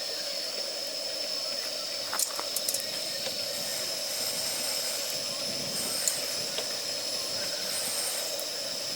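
Wood fire of damp firewood burning with a steady hiss, and a few sharp pops and crackles, a cluster about two to three seconds in and one more about six seconds in.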